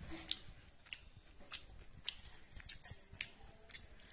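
Close-up crunching of black chickpeas (kala chana) being chewed: a series of sharp, irregular crunches, about two a second.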